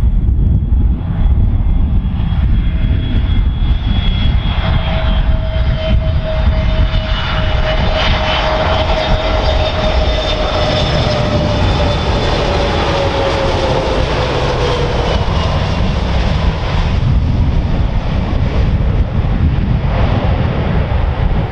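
Airbus A320neo's CFM LEAP-1A turbofan engines on landing approach, passing by with a whine that slowly drops in pitch as the jet goes past. Heavy wind rumble on the microphone runs underneath.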